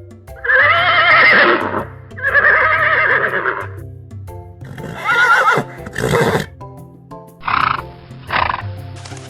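Horse whinnying: two long quavering whinnies, then four shorter ones, over background music.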